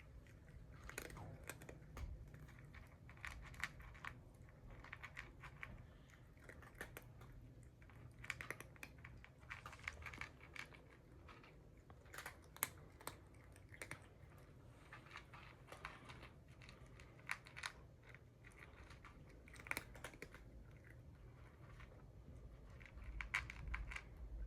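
Cats eating, with faint, irregular crunching and chewing as they bite into their food.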